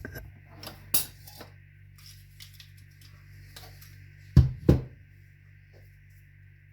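Small clicks and knocks of metal tools being handled on a hard work surface during soldering, with two louder knocks close together about four and a half seconds in, over a steady low hum.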